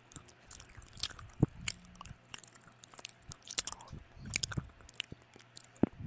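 A person eating close to the microphone: chewing with irregular wet mouth clicks and smacks, two sharper clicks standing out, one about a second and a half in and one near the end.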